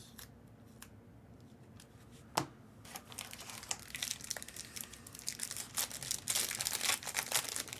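A trading card pack's wrapper being torn open and crinkled. It starts with a single click about two seconds in, and the crackling builds to its loudest near the end.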